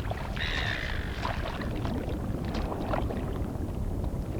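Shallow water sloshing and splashing on a reef flat, with scattered small knocks, as turtles drag themselves into the water. A short high call sounds about half a second in.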